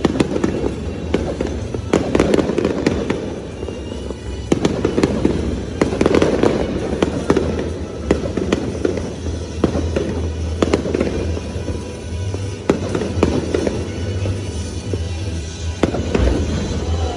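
Fireworks bursting and crackling in quick succession, with music playing underneath.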